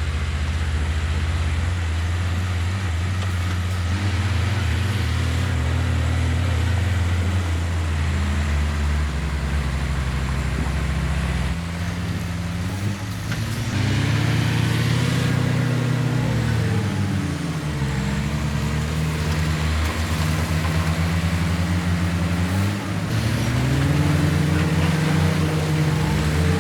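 Heavy diesel engine of earthmoving machinery running continuously, revving up about halfway through and again near the end, easing off in between as the load changes.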